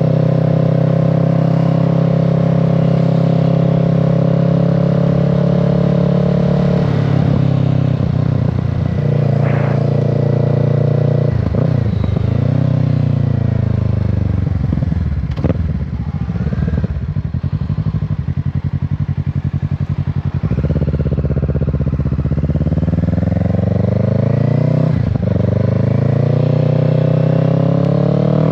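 Kawasaki Z650 parallel-twin engine and exhaust heard from the rider's seat. It holds steady revs at first, then the note drops in steps as the bike slows and downshifts, stays low for several seconds, then climbs in pitch as it accelerates, with a gear change partway through the climb.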